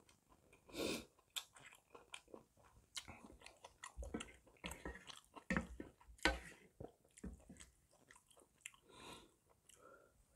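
A person chewing a mouthful of gopchang jeongol (spicy beef small-intestine stew) close to the microphone: irregular wet smacks and clicks of the mouth.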